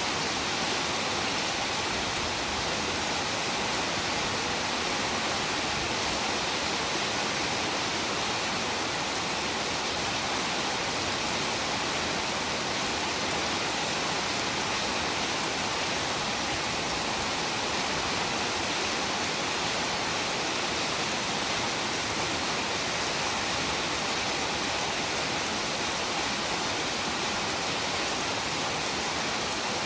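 Heavy rain falling in a steady, even hiss, with no thunder in this stretch.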